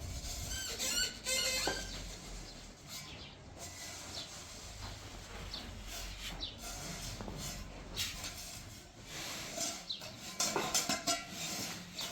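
Birds calling in short, scattered chirps, with occasional clicks and knocks.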